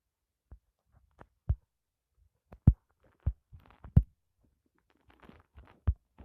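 Irregular dull thumps and knocks, about a dozen at uneven spacing, the loudest a little under three seconds in and again about four seconds in, with light rustling between some of them.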